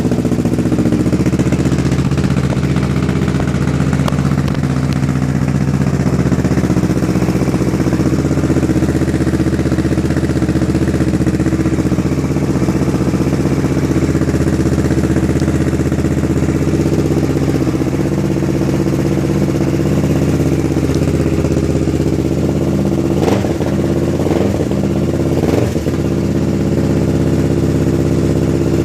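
2013 Kawasaki Ninja 650's parallel-twin engine idling steadily through a newly fitted Two Brothers aluminium full exhaust, just after its first start on the new system. The idle wavers briefly in pitch a few times late on.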